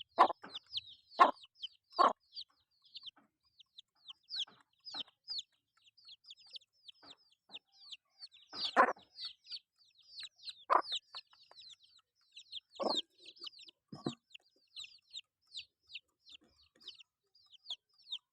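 Chickens foraging: rapid high peeping that never lets up, with a few loud, short clucks over it, three in the first couple of seconds and more in the second half.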